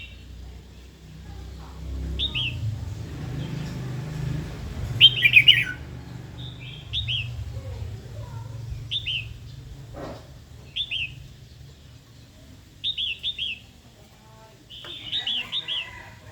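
Female red-whiskered bulbul singing short bursts of quick, down-slurred chattering notes, repeated every two seconds or so. This is the female's provoking song, used to rouse male bulbuls to sing and fight. A low rumble runs underneath for the first half.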